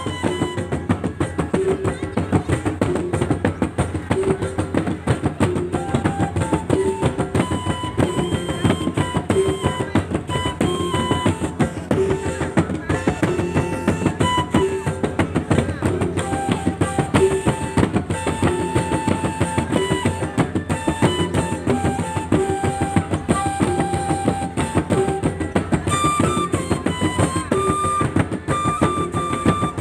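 Gordang sambilan ensemble playing: dense, fast interlocking drum strokes that never let up, with a melody of held notes stepping from pitch to pitch above the drums.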